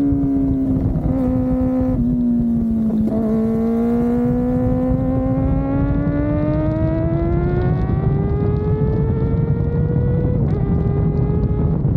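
Kawasaki ZX-4RR's 399 cc inline-four engine on board a moving bike: the engine note falls as the bike slows, with brief breaks around the first, second and third seconds, then climbs steadily for about seven seconds. Near the end the pitch drops once as it shifts up a gear, then climbs again.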